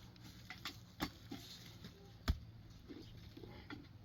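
A few sharp, irregular knocks, the two loudest about a second and a quarter apart.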